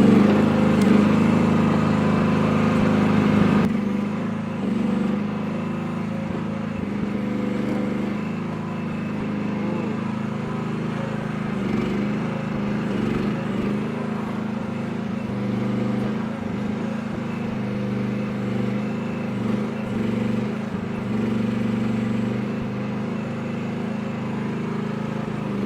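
Small engine of a Chinese mini excavator running steadily as the machine is worked. It is a little quieter after about four seconds.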